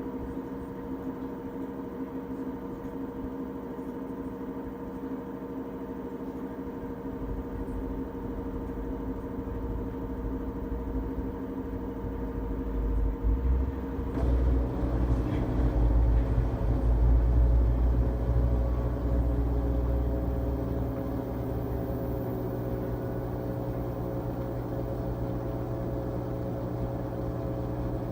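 2006 LG Tromm WD-CR101C front-loading drum washing machine running its quick-wash cycle: a steady motor hum, with a low rumble building about halfway through and then settling into a steady low drone.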